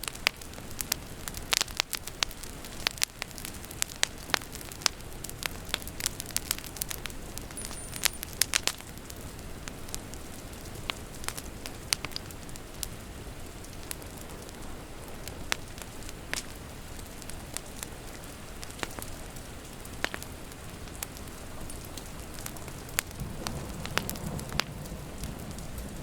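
Wood fire crackling, with many sharp pops over a soft steady hiss; the pops come thick and fast in the first several seconds, then thin out. A low rumble swells in near the end.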